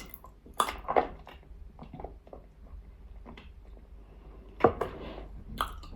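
A few faint crunches and clicks of Nzu (edible clay) being chewed, a cluster in the first second or so and two more near the end.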